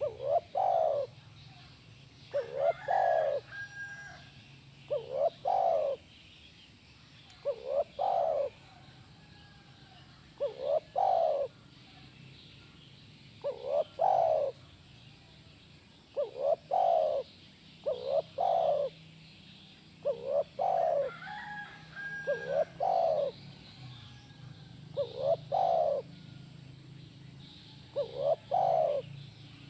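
Spotted dove (tekukur) cooing in full song: a short two- or three-note coo phrase repeated about every two to three seconds. A faint chirp from a smaller bird comes in twice, and a thin steady high-pitched whine runs underneath.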